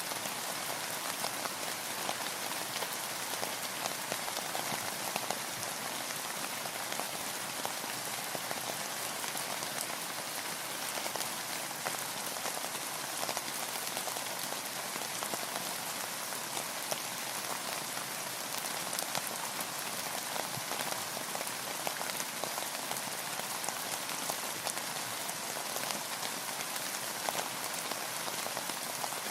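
Steady rain falling on a boat, a dense even patter of many small drop ticks.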